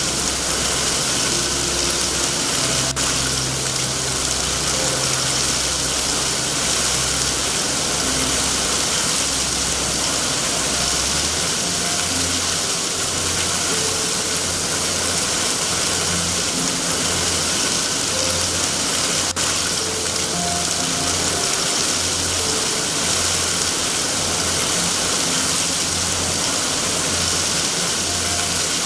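Steady heavy rain hiss over a low droning rumble that shifts down in pitch about eleven seconds in, with a faint scattering of soft, short tones.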